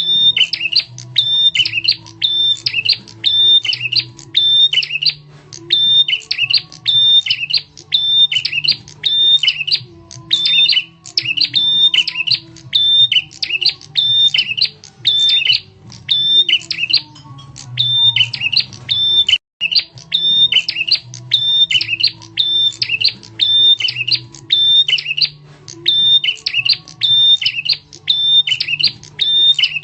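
A prenjak (prinia) bird lure recording: loud, sharp, high chirping calls repeated at about two a second over a low steady hum. The sound cuts out for an instant about two-thirds of the way through.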